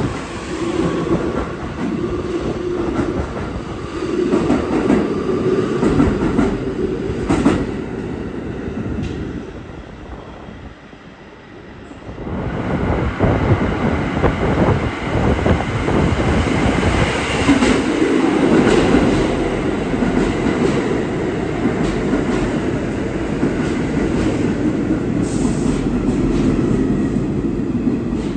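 New York City Subway train running through a station, wheels clattering on the rails. The sound falls away about ten seconds in, then grows loud again.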